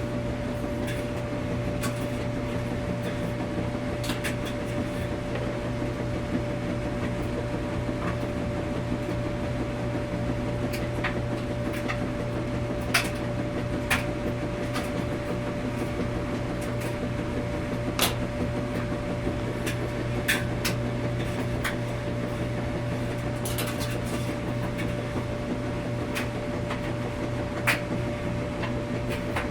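Washing machine running with a steady hum and a constant tone, with irregular light clicks and knocks every few seconds.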